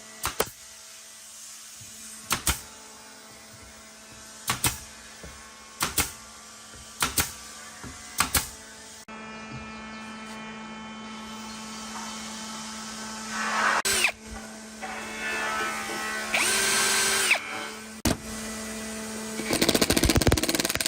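A run of sharp knocks, some in pairs, every one to two seconds. Then a power tool hums steadily and runs up in short, louder bursts several times near the end.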